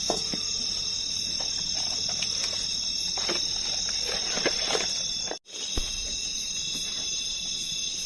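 Steady chorus of night insects, crickets among them, trilling on several high tones, with scattered light clicks and taps. The sound drops out for a moment about five seconds in.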